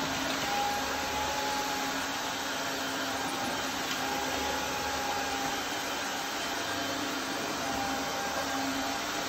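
Roidmi Neo cordless wet-and-dry vacuum cleaner running steadily in auto mode: an even motor noise with a steady whine.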